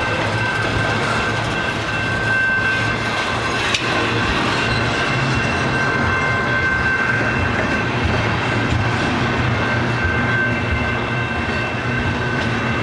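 Canadian Pacific freight train rolling past at close range, its cars clattering steadily over the rails, with a steady high whine over a low rumble. There is a single sharp knock about four seconds in.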